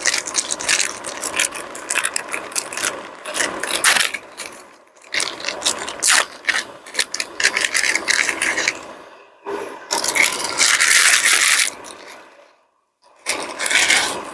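Camp-cooking handling sounds as seaweed is added to ramen in a pot: crinkling and scraping in irregular bursts, with a brief pause near the end.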